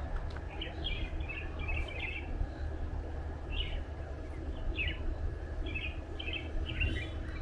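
Birds chirping in short bursts of quick notes, a string of separate phrases, over a steady low rumble.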